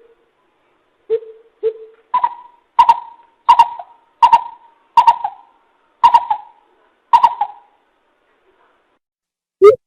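Coucal calling, as a trapper's lure recording: two deep hoots, then a series of higher, harsher notes at a steady pace of a bit under one per second, then a pause. Near the end a new run of quick deep hoots begins.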